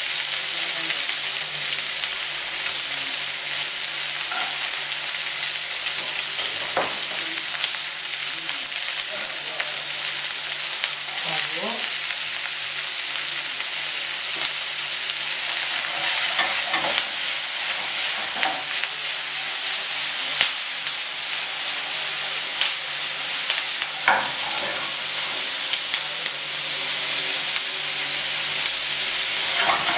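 Meatballs frying in a little oil in a steel skillet over a gas burner: a steady sizzle, with a few faint clicks and scrapes scattered through it.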